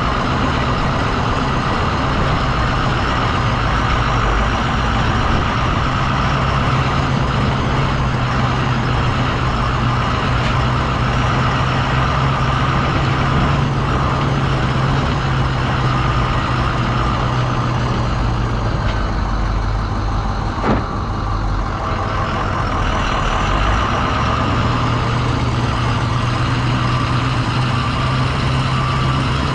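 The dump truck's International VT365 V8 turbo-diesel engine running steadily, with a single sharp click about twenty seconds in.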